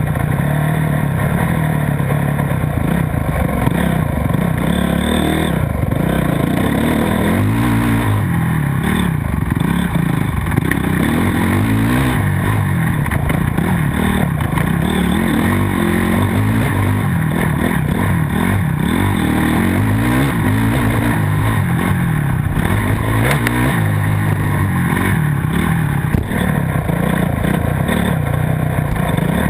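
Motocross dirt bike engine being ridden hard, its pitch rising and falling again and again as the throttle is opened and closed.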